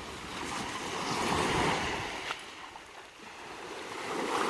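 Sea waves washing in and drawing back. The wash swells about a second and a half in, dies down near three seconds, then builds again near the end.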